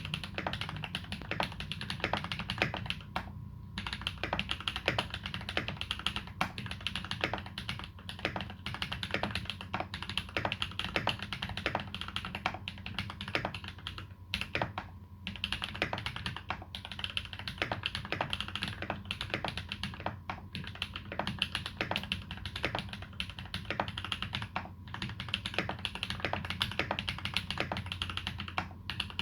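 Continuous typing on a TX EO87 frosted custom mechanical keyboard with lubed Massdrop Holy Panda tactile switches and GMK Dolch keycaps, a fast run of key clacks with a few short pauses.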